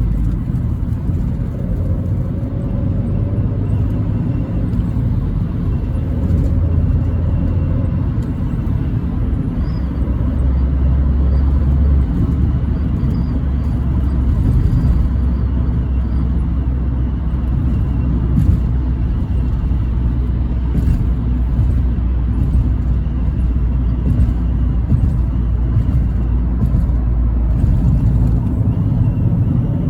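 Abarth 500C's turbocharged 1.4-litre four-cylinder running, a steady low exhaust rumble, with a few short sharp exhaust pops in the second half.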